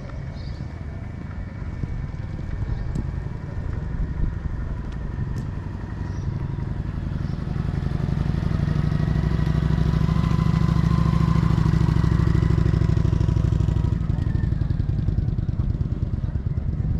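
An American muscle car's engine running, louder for several seconds in the middle before easing off near the end.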